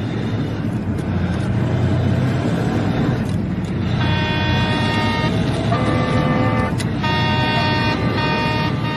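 Road traffic noise, with steady horn tones blaring from about four seconds in; the tones change a few times.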